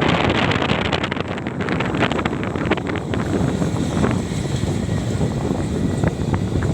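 Kubota combine harvester running steadily while cutting rice, with wind buffeting the microphone. There is some crackling in the first few seconds.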